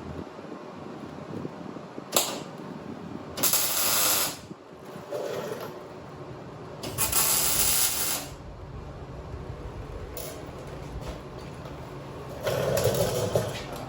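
Three short bursts of MIG welding, each about a second long, crackling and hissing as tack welds go onto steel tubing. A sharp click about two seconds in.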